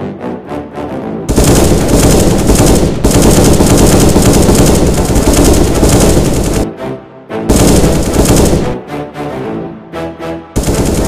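Long bursts of automatic gunfire over music: one starts about a second in and runs about five seconds, a shorter burst follows, and a brief one comes near the end.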